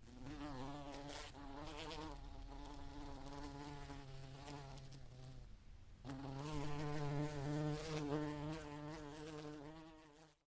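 A flying insect buzzing, its pitch wavering as it moves, fading briefly about halfway through and coming back louder.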